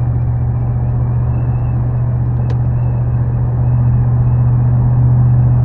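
5.7 L HEMI V8 exhaust with resonator delete and aftermarket muffler droning steadily while cruising at highway speed, a low steady hum that grows a little louder about four seconds in.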